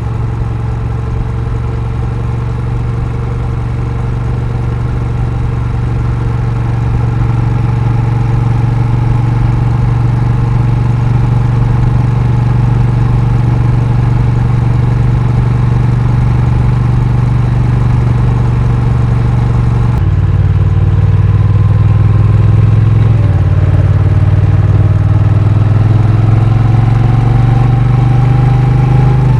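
Honda Rebel 1100's parallel-twin engine running at a steady speed. About twenty seconds in the sound changes, and the engine note then climbs steadily as the bike accelerates.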